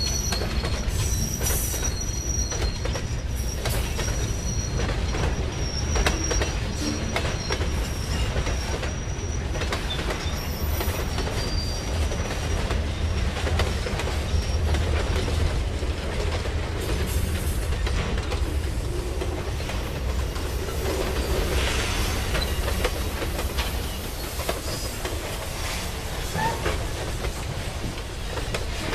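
Freight train boxcars rolling past at close range: a steady heavy rumble with repeated wheel clicks over the rail joints. A thin, high wheel squeal runs through roughly the first ten seconds and then fades.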